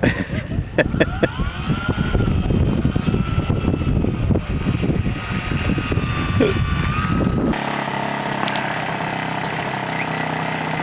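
Model airplane engine running over wind on the microphone, its pitch rising and falling. About two-thirds of the way through, the sound switches abruptly to the engine idling steadily.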